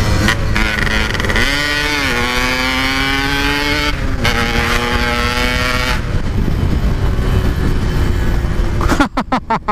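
Yamaha RX-King 135cc single-cylinder two-stroke engine through a Packing Power aftermarket exhaust, accelerating hard with its pitch rising through a gear, dropping at a shift about four seconds in, and rising again. Around six seconds in the throttle eases and wind and road noise take over, followed by a quick stutter of sharp pulses near the end.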